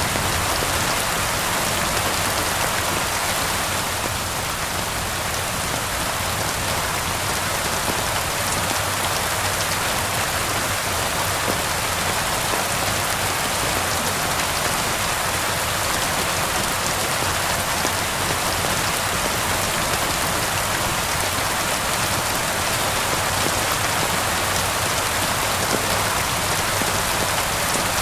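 Steady rain falling without a break, with fireplace crackling mixed in underneath.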